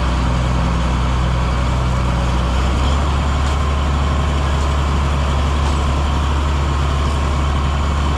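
Heavy farm-machinery diesel engine running steadily with a low drone whose note shifts slightly about three seconds in.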